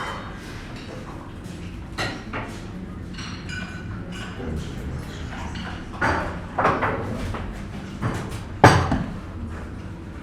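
Breakfast-room ambience: a low murmur of background chatter with crockery and cutlery clinking and knocking, a few sharp knocks about two seconds in and a cluster between six and nine seconds, the loudest near the end.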